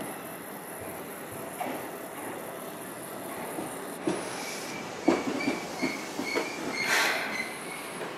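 Seibu 2000-series electric commuter train pulling into a station platform and braking to a stop. A high hiss runs through the first half. About halfway in, the wheels start squealing in an on-and-off high tone, with a run of sharp clicks from the wheels on the rails as it slows.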